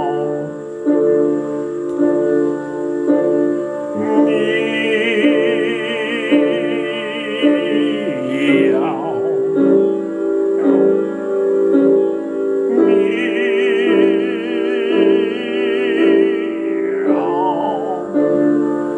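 Operatic singing with piano accompaniment, sung on cat-like 'meow' syllables. Twice a voice holds a long high note with wide vibrato that ends in a sliding downward fall, over steady piano chords.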